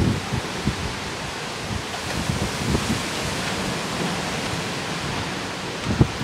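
Strong storm wind blowing with a steady hiss, its gusts buffeting the microphone as irregular low rumbles, strongest at the start and again near the end.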